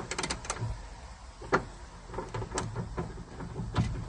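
Socket ratchet clicking in short, irregular strokes as it is worked on a car door hinge bolt: a quick run of metallic clicks at the start, then single clicks about once a second.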